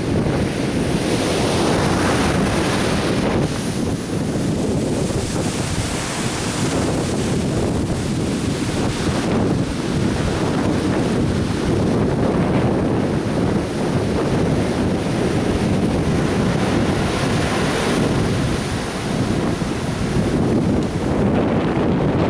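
Atlantic Ocean surf breaking and washing onto a beach in a steady rush with slow swells, with wind buffeting the microphone.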